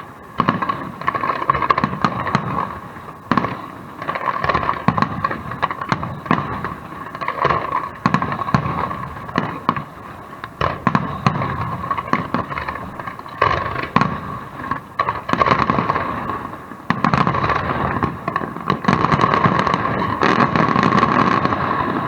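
Fireworks display: a rapid, irregular run of shell bursts and crackling, many reports a second, thickening into a dense continuous crackle in the last few seconds and then dying away.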